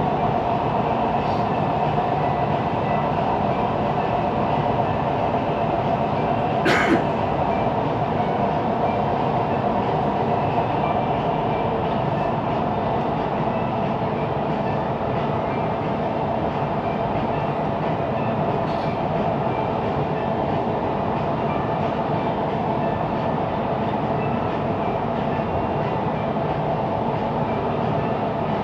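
Siemens Inspiro MRT train running between stations, heard from inside the carriage: a steady rolling noise with a constant humming tone, and one sharp click about seven seconds in.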